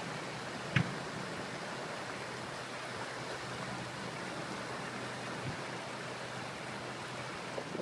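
Steady rushing noise of rainwater during a storm, with one short click about a second in.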